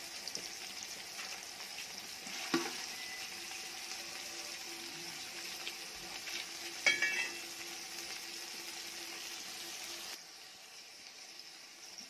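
Sliced onions, tomatoes and green chillies sizzling in hot oil in a metal cooking pot as they are stirred, with a steady hiss. A sharp ringing clink about seven seconds in is the loudest moment, and the sizzle drops quieter about ten seconds in.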